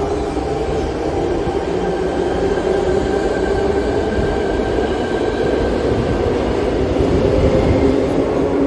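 Sydney Trains electric suburban train moving through an underground platform, a steady whine over the noise of wheels on rail.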